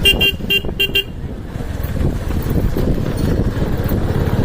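A vehicle horn honking several times in quick, short beeps, then a steady low rumble of a motorcycle engine and wind on the move.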